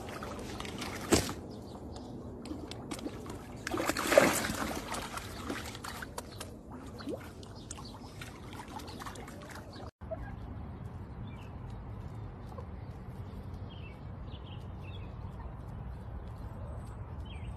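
Shallow water lapping and trickling against a rocky shore, with a louder splashing rush about four seconds in. About ten seconds in it gives way to a faint steady hum with a few faint short chirps.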